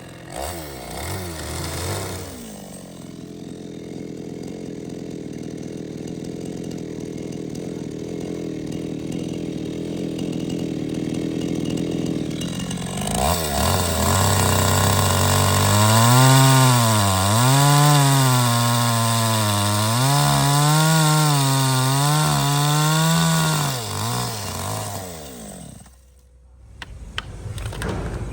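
Power tool running on wood, its motor pitch steady at first, then rising and falling over and over under load through the second half, before dying away about two seconds before the end.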